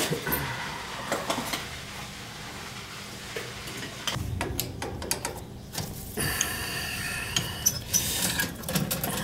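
Scattered clicks and metallic clinks of hand tools and boiler fittings being handled, growing busier about halfway through.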